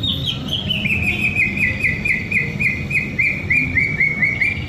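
White-rumped shama singing a quick run of about fifteen short slurred whistles, about three a second, the series sinking gradually in pitch.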